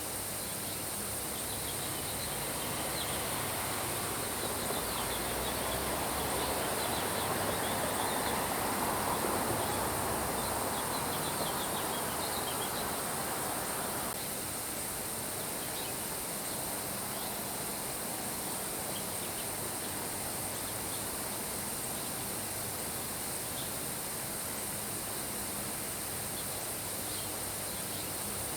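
Steady rain with birds chirping and a constant high insect trill, like crickets. The rain swells louder during the first half and drops back suddenly about halfway through.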